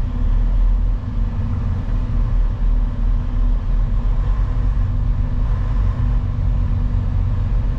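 Semi truck's diesel engine running steadily at low revs, a deep rumble with a faint steady hum over it, as the rig creeps forward.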